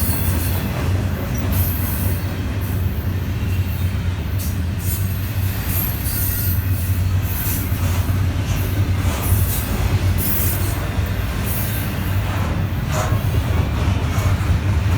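Train rolling past with a steady low rumble, and brief high-pitched wheel squeals now and then.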